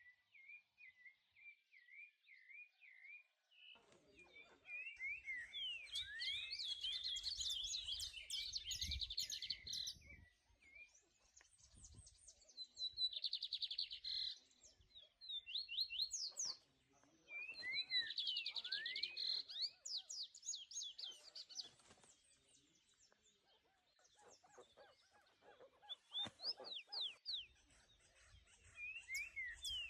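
Birds chirping and calling in bouts of quick, high, repeated chirps, with short quieter gaps between the bouts.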